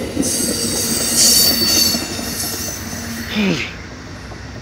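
An Amtrak passenger train passing close by: steel wheels running on the rails with a high-pitched wheel squeal. The noise fades over the last second or so as the end of the train goes by.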